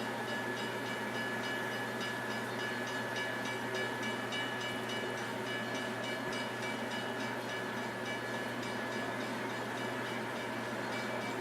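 Train sounding steadily, with a few steady high tones over the running noise and a faint rapid ticking, holding an even level throughout.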